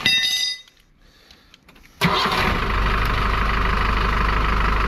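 A short metallic ring at the start, then about two seconds in the Ford Transit van's engine starts abruptly and settles straight into a steady idle.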